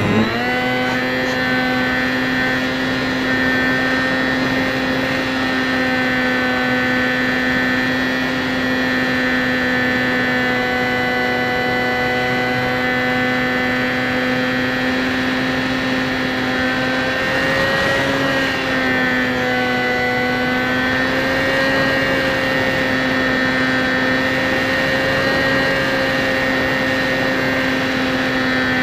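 Electric motor and propeller of a HobbyZone Champ RC plane, heard from a camera mounted on its underside, running steadily at flying throttle with an even high hum. About two-thirds of the way through the pitch dips briefly and wavers before settling back.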